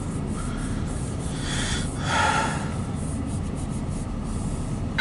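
Loaded CSX coal train rolling past with a steady low rumble. A short breathy sound close to the microphone comes about two seconds in.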